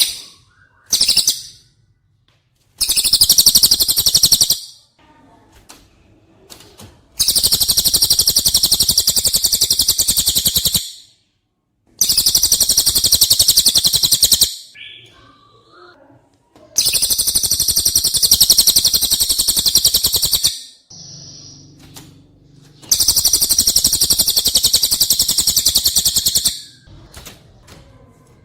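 Songbird song played as a masteran tutor recording: five long, high, very rapid trills, each lasting a few seconds, with pauses between them. Softer chirps fall in the pauses.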